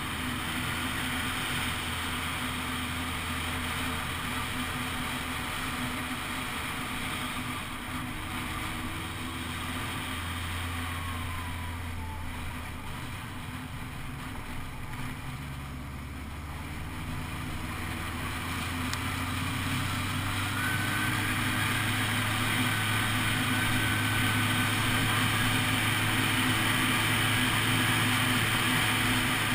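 Honda CBF600 SA's inline-four engine running under way, heard from on the bike. The engine note shifts a couple of times and grows louder about two-thirds of the way through.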